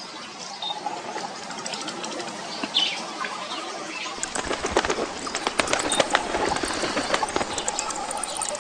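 Wings of a flock of birds flapping, a dense flurry of quick wingbeats starting about four seconds in, with a few short bird chirps before it.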